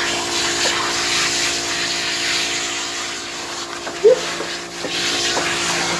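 Handheld shower sprayer running steadily, water spraying through a kitten's fur to rinse out shampoo, with a faint steady hum underneath. A short squeak about four seconds in.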